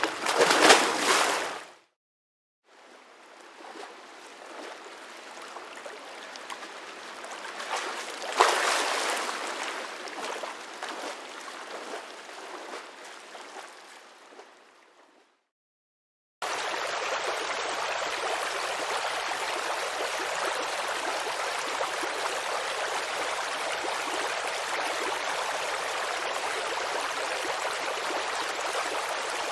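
Rushing water: a brief loud surge, then a long swell that builds and fades away like a wave. After a short gap, about sixteen seconds in, a steady babbling creek starts and runs on evenly.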